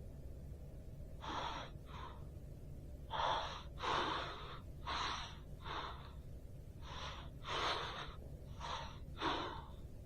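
A person taking about ten sharp, uneven gasping breaths, over a steady low hum.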